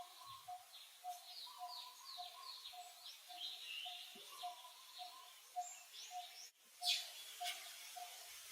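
Wild birds calling: many short falling chirps over a steady low note repeated about twice a second. There is a short, louder burst about seven seconds in.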